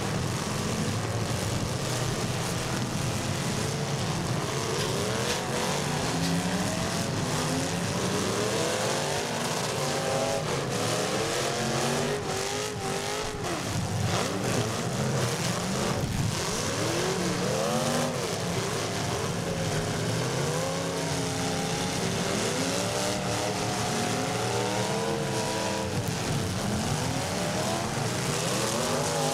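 Several demolition derby cars' engines revving up and down at once, with a few metal crashes of cars hitting each other about midway.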